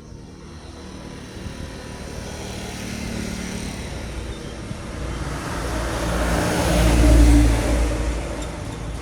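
Heavy truck approaching and passing by, its diesel engine and tyres growing steadily louder to a peak about seven seconds in, then fading.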